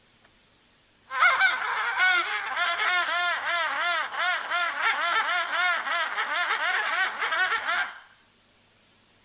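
A bird calling in a long, rapid run of repeated rising-and-falling calls, several a second, starting about a second in and stopping near the end.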